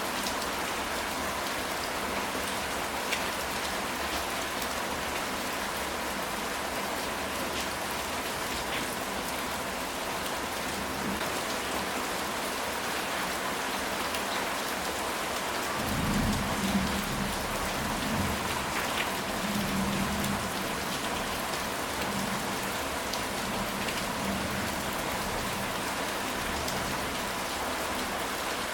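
Steady rain falling on a ceramic tile roof, a dense even patter. About halfway through, a low rumble of thunder rolls for several seconds and then fades back under the rain.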